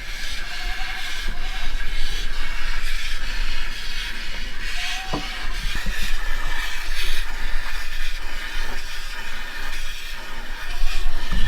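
A goat being hand-milked: repeated squirts of milk hissing into a pail.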